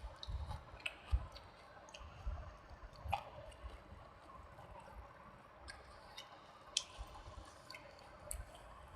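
Close-miked eating: chewing of soft, wet food with irregular wet mouth clicks and smacks.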